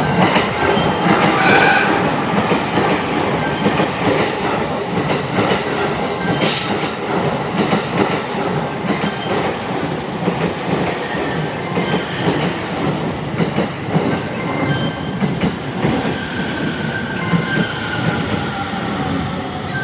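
A 15-car E231-series commuter train running into the platform: steady rolling noise of wheels on rail with high wheel squeals coming and going throughout, loudest in the first two seconds.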